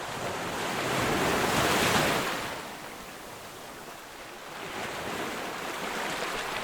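Ocean waves breaking on a beach: the surf swells to a crash about two seconds in, washes back, and a second, smaller wave builds near the end.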